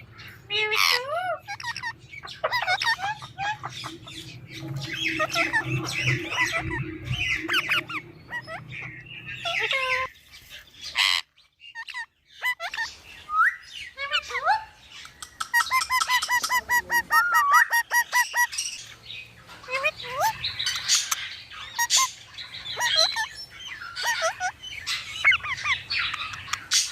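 Indian ringneck parrot calling: a string of squawks and chirps sliding up and down in pitch, with a fast, even trill for a few seconds past the middle.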